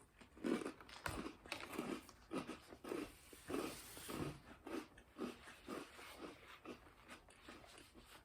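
A person chewing a mouthful of Cocoa Puffs cereal in milk close to the microphone, a steady run of chews at about two a second.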